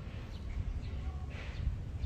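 A few faint, short high chirps of small birds over a steady low rumble.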